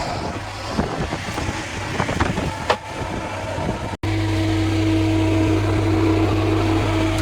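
Industrial machinery: irregular metal knocks and clanks over a running machine, then, after a break about four seconds in, a steady machine hum with a low drone and a held tone.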